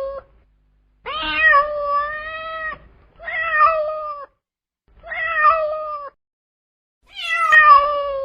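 Domestic cat meowing four times, each meow about a second long, the first the longest, with short silent gaps between them.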